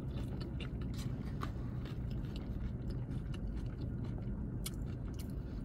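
A person chewing a mouthful of falafel bowl, with scattered soft wet mouth clicks and smacks over a steady low hum.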